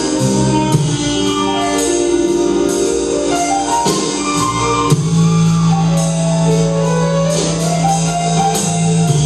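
Band playing an instrumental passage with no vocals: sustained keyboard and guitar chords over a bass line, with drums and tambourine keeping time. About halfway through, the bass settles on one long held note, which changes just before the end.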